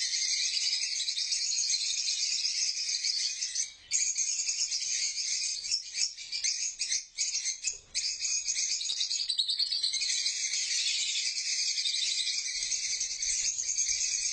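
Many small birds chirping and chattering at once in a dense, continuous high-pitched chorus, broken by a few brief gaps.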